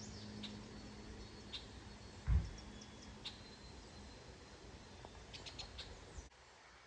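Wild birds chirping and calling in short, high notes scattered through the stretch, with one dull low thump a little over two seconds in.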